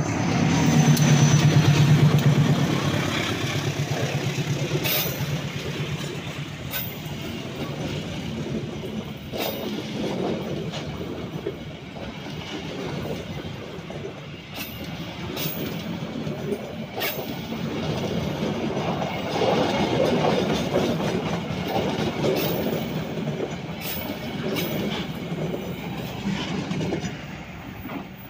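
CC 201 diesel-electric locomotive passing close by, its low engine drone loudest in the first few seconds. A long rake of passenger coaches follows, rolling past with a steady rumble and irregular sharp wheel clacks, then fades as the last coach goes by near the end.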